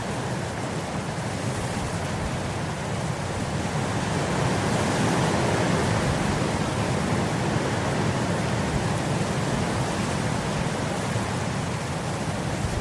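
Wind blowing through grass: a steady rushing that swells louder for a few seconds around the middle, then eases back.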